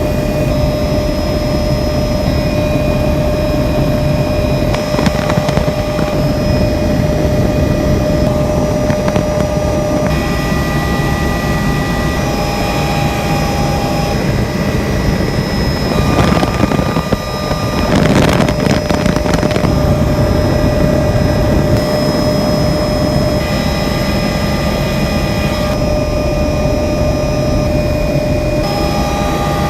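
Helicopter in flight, heard from inside the cabin: a loud, steady drone from the rotor and engine with several steady whine tones above it. A brief louder rush of noise comes a little past halfway.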